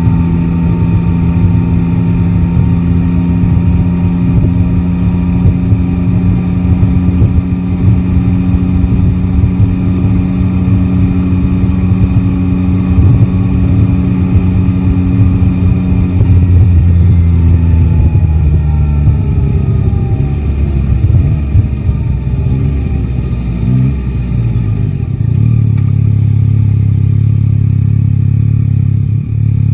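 Yamaha Tracer 9 GT's inline three-cylinder engine running steadily at cruise. About seventeen seconds in, it falls in pitch as the bike slows, then settles to a low steady note, and it starts to rise again right at the end.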